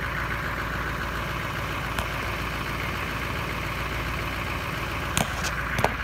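1981 Cadillac's diesel V8 idling steadily while it warms up, heard from inside the car. A faint click about two seconds in, and three sharp clicks near the end.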